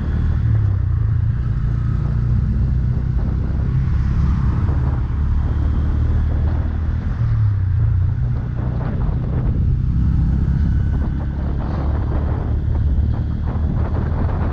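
Bajaj Pulsar N160's single-cylinder engine running steadily while the motorcycle is ridden, with wind noise on the microphone. It shows no audible fault even with the check engine light on.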